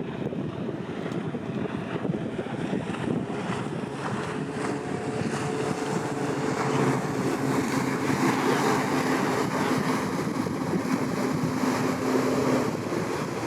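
Wind buffeting the microphone over the steady drone of a boat engine on the water. A low engine hum comes in about halfway through and holds for several seconds, and the noise grows a little louder.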